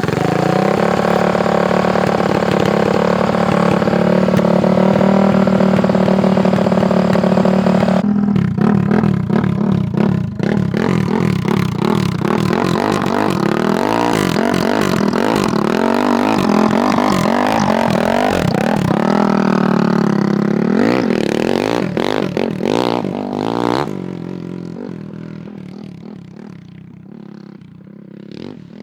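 Honda CRF450 single-cylinder four-stroke engine in a go-kart, running with the choke on: a steady fast idle for about eight seconds, then revving up and down repeatedly, before dropping off and fading away over the last few seconds.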